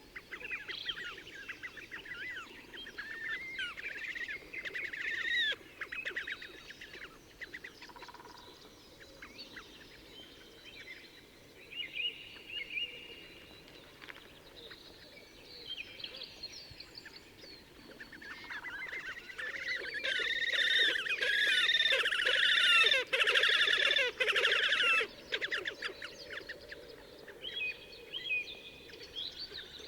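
Slavonian grebes calling: bursts of rapid, quavering trills. The longest and loudest trilling bout comes about twenty seconds in and lasts some five seconds.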